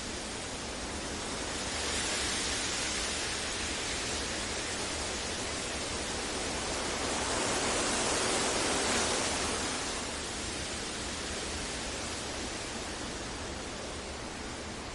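Synthetic masking noise for sleep: an even, rushing hiss with no tones or clicks. It swells slowly louder about two seconds in and again in the middle, then eases off after about ten seconds.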